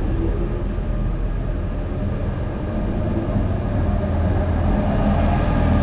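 SNCF Z 20500 double-deck electric commuter train running beside the platform: a steady rumble that grows a little louder.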